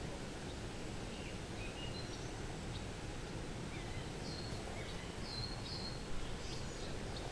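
Riverside ambience: a steady low rumble of background noise, with a small songbird's short chirps and whistles scattered through it, most of them about halfway through.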